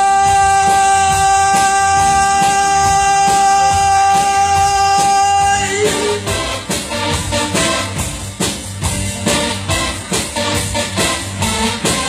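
Male vocalist holding the song's final 'la' as one long steady note over a rock backing, the note ending about six seconds in. The instrumental backing with drums and guitar then plays the outro.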